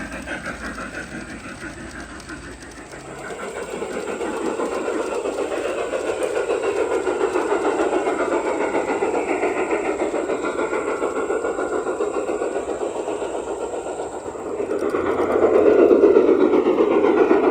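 Garden railway model train running on its track, its wheels rattling and clicking along the rails. The sound grows louder from about three seconds in and is loudest near the end as the train passes close, then falls away.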